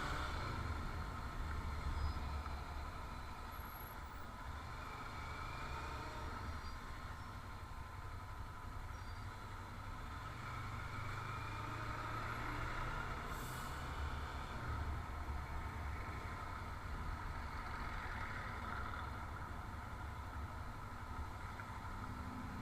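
Steady motor-vehicle running noise: a low engine and road rumble that swells and eases every few seconds over a constant hiss.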